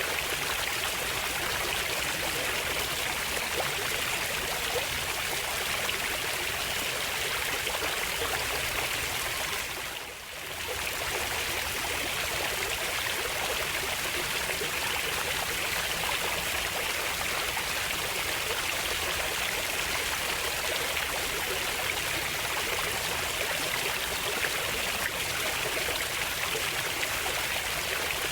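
Flowing water running steadily, with a brief dip in level about ten seconds in.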